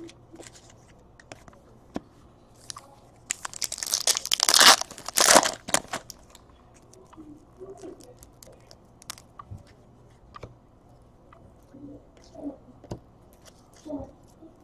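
Foil trading-card pack wrapper crinkling and tearing open for about two and a half seconds, with light clicks and taps of cards being handled before and after.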